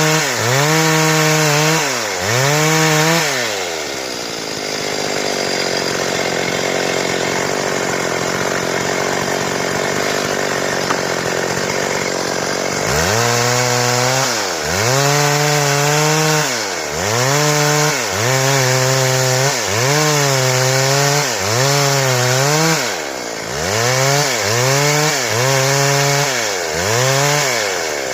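Stihl two-stroke chainsaw revving up and down about once a second, with a stretch of about nine seconds in the middle where it runs lower and steady.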